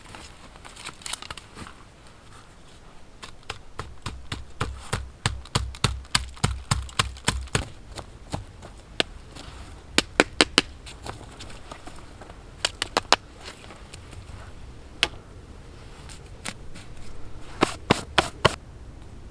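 Repeated sharp knocks: a run of about three strikes a second with a dull thud under each, then short clusters of two to four quick knocks.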